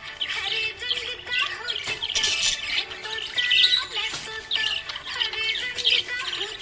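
Budgerigars chirping and warbling in quick, busy bursts throughout, over background music.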